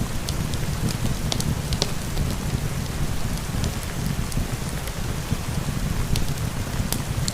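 Steady rain, with a heavy low rumble, mixed with a wood fire in a fireplace giving scattered sharp crackles.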